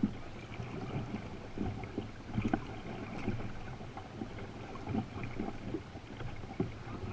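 Canoe on a river under paddle: water splashing and sloshing, with a few irregular knocks.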